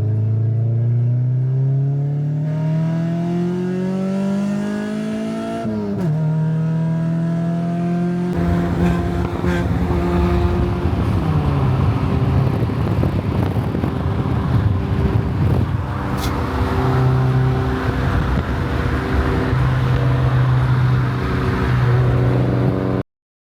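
Car engine accelerating, its pitch climbing steadily for several seconds before dropping sharply, like a gear change. It then runs at a steadier note under road and wind noise, and the sound cuts off abruptly near the end.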